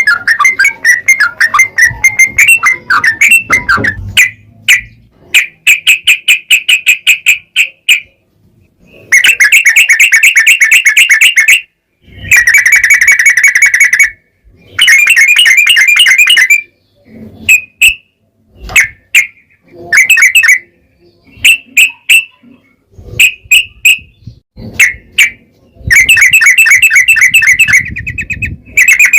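Yellow-vented bulbul (trucukan) singing: fast trills of rapidly repeated notes around 2 kHz, each burst two to three seconds long, broken by short gaps and brief chirped phrases.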